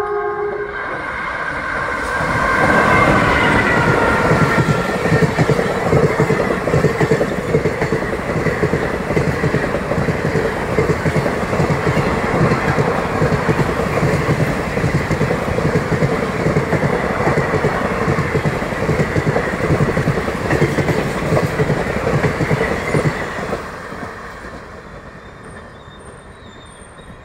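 Indian Railways express behind an electric locomotive passing through a station at speed. The locomotive's horn cuts off about a second in, then the coaches run by with a rapid clickety-clack of wheels over rail joints and a steady rumble for about twenty seconds, fading near the end as the train pulls away.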